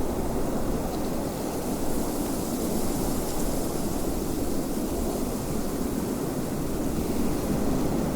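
Steady wind blowing: an even, low rushing noise with a fainter hiss above it.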